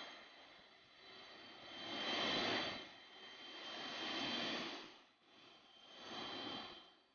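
Jet airliner engines heard at a distance, a rumble that swells and fades about every two seconds, with a faint high whine in the first few seconds.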